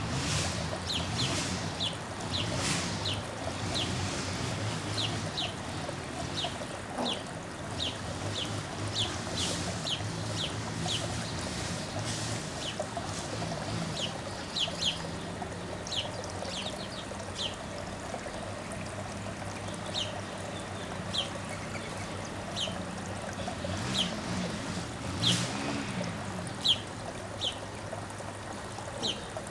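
Small backyard birds chirping: short, sharp, high notes repeated in irregular runs, over a steady background hiss.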